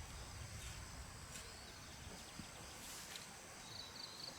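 Faint outdoor ambience: steady high insect buzzing, a few soft knocks, and a bird's quick run of short chirps near the end.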